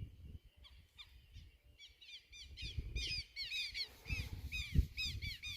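Birds chirping in quick, repeated short calls, busiest from about two seconds in, with a few low rumbles underneath.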